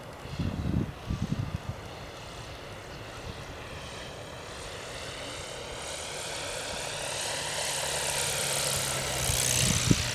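Electric motor and propeller of a 2.7 m radio-controlled Extra 330LX aerobatic model airplane in flight, a high whine that grows steadily louder as it comes closer and is loudest near the end. A few low thumps come in the first two seconds.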